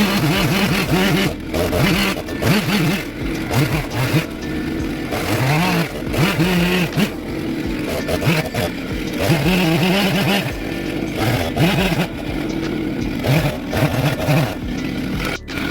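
Two-stroke chainsaw cutting wood, its engine revving up and dropping back again and again as the carver works the throttle.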